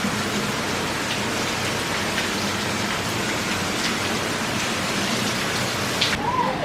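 Steady hiss of falling water, with a few faint ticks in it; it breaks off near the end.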